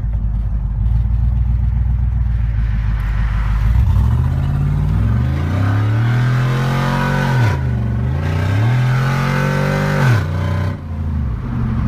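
2009 Chevy Colorado's 5.3 L Vortec V8 with an aftermarket cam and custom exhaust running at idle, then accelerating hard after a few seconds: the revs climb, drop sharply at an upshift, climb again and fall back near the end.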